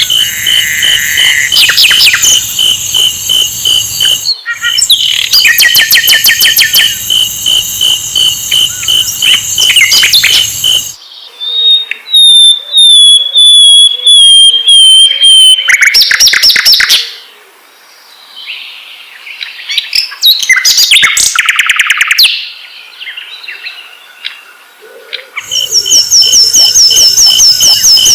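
Sikatan londo flycatcher singing: fast, high-pitched trills and chatter, broken about halfway by a series of whistled notes stepping down in pitch, then more bursts of trilling.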